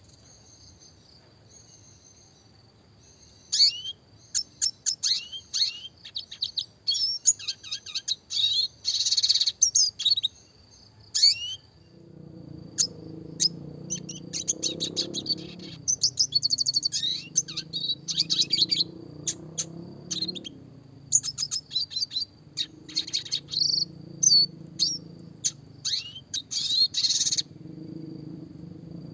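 Red siskin singing a fast twittering song of sharp chirps and rapid trills in dense bursts, beginning a few seconds in and pausing briefly near the middle. A faint steady high tone runs underneath, and a low rumble comes in from about halfway through.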